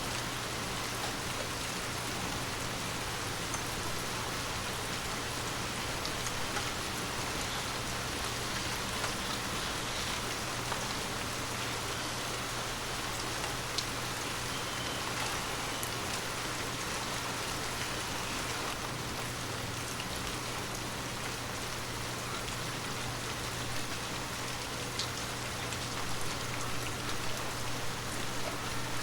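Heavy rain falling steadily, with single drops ticking out now and then and a steady low hum underneath.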